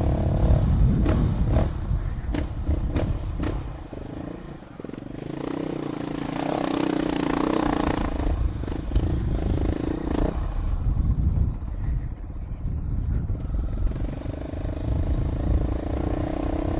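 Dual-sport motorcycle engine running at low trail speed, with sharp clattering knocks over the first few seconds. The engine eases off around four seconds in and then picks up again.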